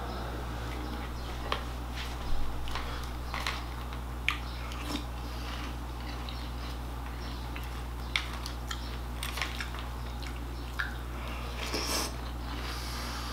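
Chewing crunchy Krave cereal, with a white plastic spoon scraping and clicking in a green plastic bowl. The crunches and clicks come irregularly, over a steady low hum.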